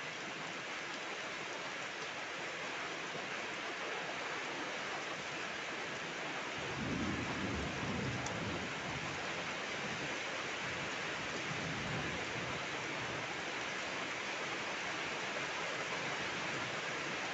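Steady rain falling, with a low rumble of thunder rising about a third of the way in and fading out over several seconds.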